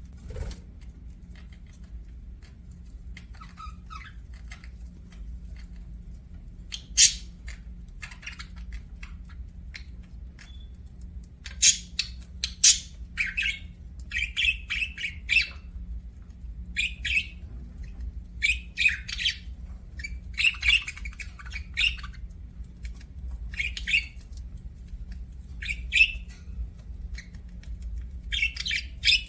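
Budgies (budgerigars) chirping in short, sharp calls that come irregularly, thickening into rapid chatter in the second half, over a steady low hum.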